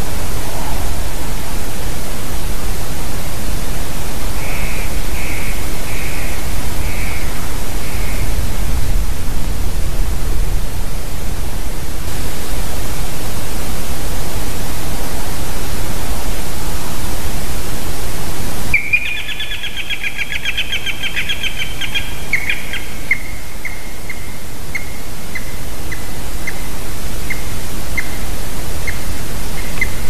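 Steady loud hiss with wild birds calling over it: a short series of five calls a few seconds in, then, after an abrupt change in the sound near the middle, a quick run of calls that slows to single notes about once a second.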